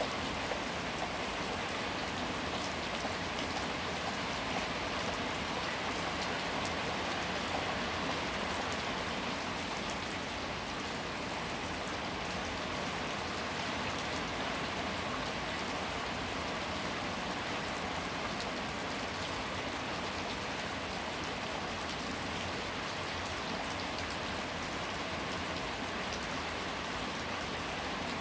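Steady rain falling: an even hiss with scattered sharper drop hits, holding the same level throughout.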